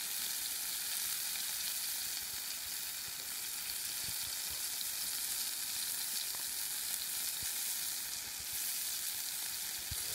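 Pieces of flathead frying in shallow oil in a pan, sizzling steadily with a few faint pops.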